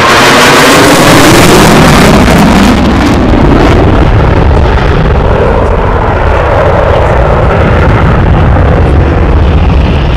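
Jet aircraft passing low overhead: a loud roar with a falling pitch as it goes by, peaking in the first few seconds, then fading to a deep rumble as it moves away.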